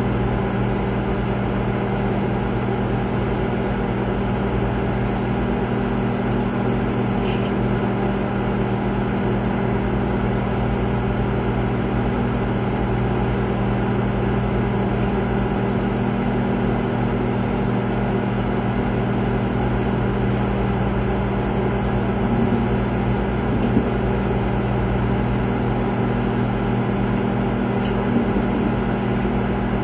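Microwave oven running steadily partway through a long heating cycle, a constant hum, with a plastic Coke bottle heating inside.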